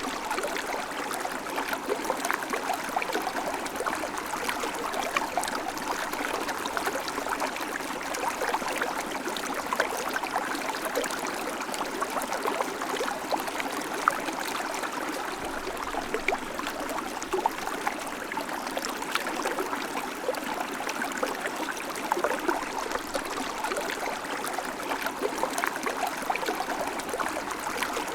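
River water flowing steadily over rocks, a constant rushing babble full of small splashes and gurgles.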